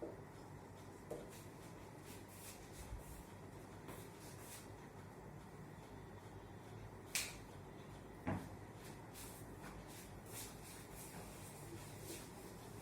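Quiet room with a few faint clicks and knocks, the two sharpest about seven and eight seconds in.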